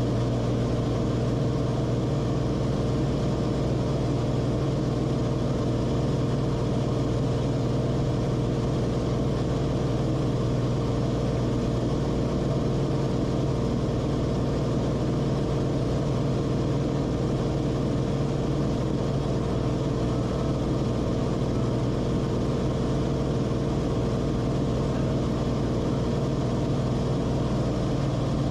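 Steady drone of the Cessna Corvalis TTX's turbocharged six-cylinder piston engine and propeller at a constant power setting in flight.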